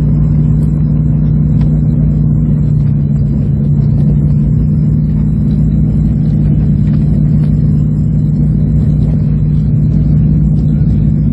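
Steady, loud engine drone with a constant low hum that holds the same pitch throughout.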